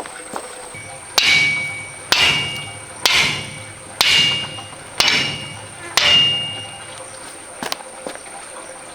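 Six ringing metallic clangs about a second apart, each fading quickly: a steel tool being struck repeatedly while working rock.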